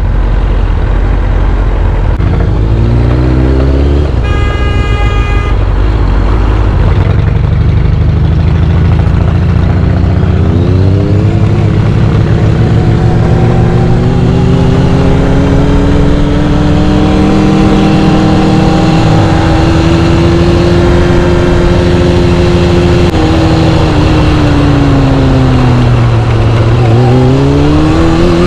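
Kawasaki ZX-6R inline-four sportbike engine under way over wind noise: it revs up through the gears, cruises steadily, slows down and then picks up again near the end. The rider says the bike is still not acting right and suspects its carburettors. A vehicle horn sounds for about a second and a half, about four seconds in.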